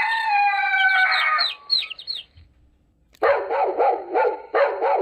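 Recorded rooster crowing: one long drawn-out crow. After a brief silence comes a quick run of short, evenly repeated calls.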